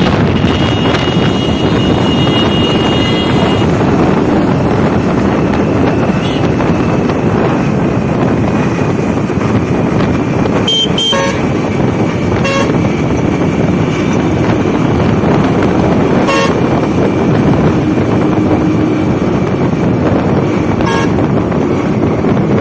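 Riding noise of a Hero Honda Splendor motorcycle in traffic: steady engine and wind rush, with several short horn toots from about halfway on.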